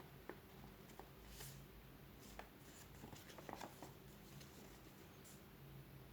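Near silence, with a few faint, scattered ticks and rustles of paper being handled.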